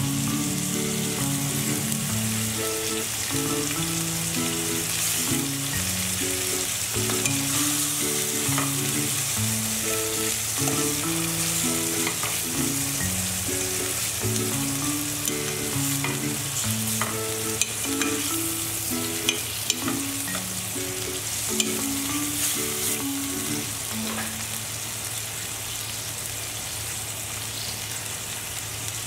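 Lamb testicles sizzling in hot oil in a stainless steel frying pan, a steady hiss throughout. Metal tongs turning the pieces give a few sharp clicks against the pan about two-thirds of the way through.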